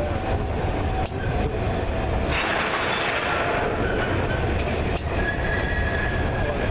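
Train rolling past with a low rumble and steel wheels squealing in thin, steady high tones. About two seconds in comes a rush of hissing noise lasting about a second, and there are a few sharp clicks.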